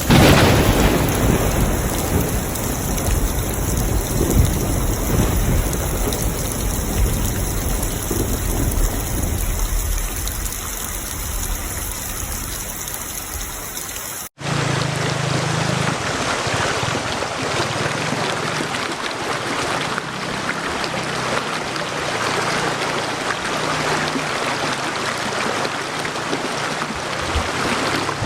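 Heavy rain with a sudden thunderclap at the start that rumbles and slowly fades. About halfway there is an abrupt cut to steady rain with no thunder.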